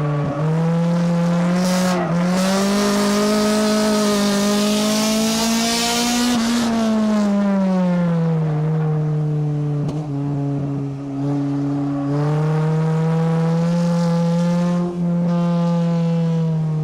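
Race car engine at full race speed, heard from inside the car, its pitch climbing for several seconds and then falling as the driver lifts, then climbing again, with brief dips like gear changes or lifts. A loud hiss of wind or tyre noise rides over the engine for a few seconds in the first half.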